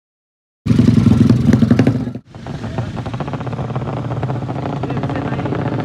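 Motorcycle engine running hard, starting abruptly under a second in with a fast pulsing rev. It cuts out briefly about two seconds in, then runs on steadily and slowly grows louder.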